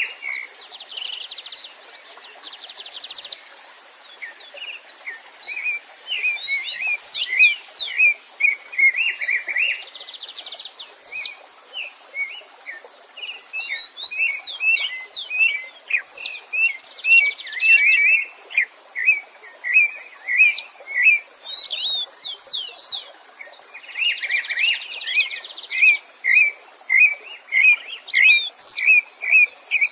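Several songbirds singing at once: rapid runs of short, repeated chirps mixed with quick upward-sweeping whistles and buzzy trills, over a faint steady hiss.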